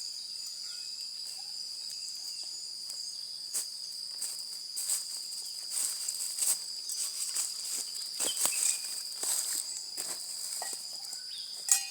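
Steady high-pitched insect chorus, typical of crickets, running without a break. About a third of the way in, irregular clicks and rustles start and continue to near the end, with a sharper click just before the end.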